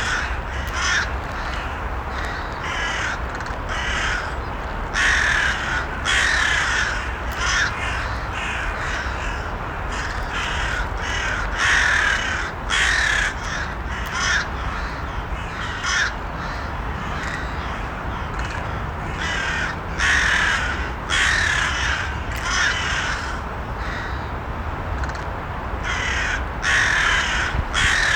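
Crows cawing, harsh calls coming in short runs every second or two, over a steady low background noise.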